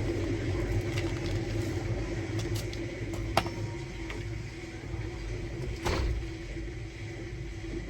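Samsung Bespoke Grande washing machine running on a quick-wash cycle: a steady low rumble with a constant motor hum, and two short clicks, about three and a half and six seconds in.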